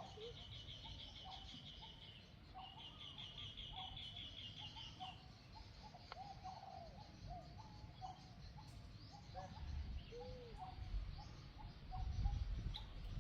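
Birds calling: two high rattling trills in the first five seconds, then many short chirps throughout, with a low rumble, like wind on the microphone, that grows stronger near the end.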